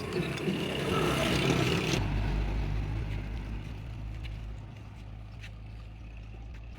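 Vehicle engine running, a steady low rumble that comes up about two seconds in and slowly fades.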